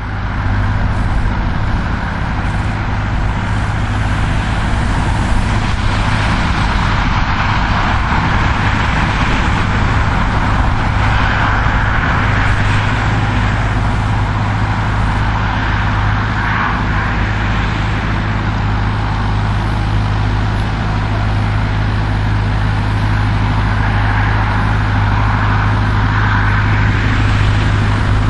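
Diesel engine of a Same Silver 110 tractor running steadily under load while pulling a four-furrow plough, a deep even hum with a constant hiss over it.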